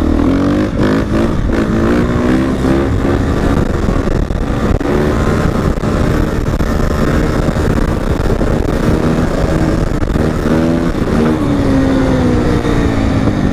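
Dirt bike engine running while riding, its pitch rising and falling as the throttle is opened and closed.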